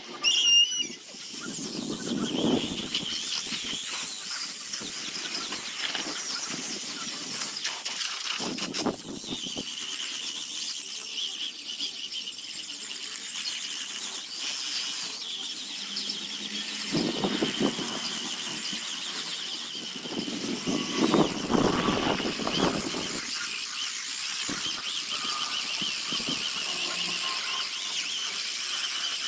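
High-speed rotary carving tool with a steady high-pitched whine, growing louder and rougher several times as it cuts into the wood.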